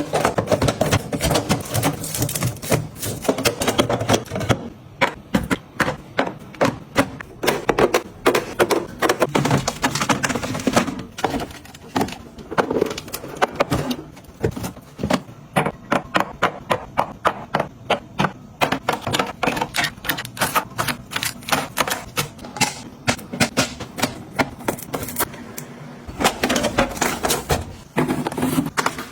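A fast, uneven run of sharp taps and clicks, several a second, with short lulls.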